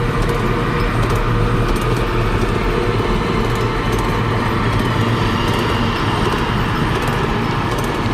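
Mini bike engine running steadily while being ridden, with light rattling clicks over it.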